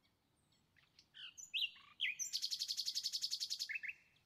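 A small songbird chirping, with short high notes and glides, then a fast, even trill of about a dozen notes a second lasting over a second, ending in two short chirps.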